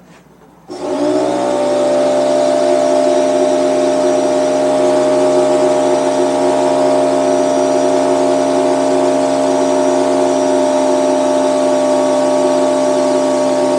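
Bostitch 6-gallon air compressor switching on about a second in, its motor and pump spinning up and then running steadily as it pumps up the tank.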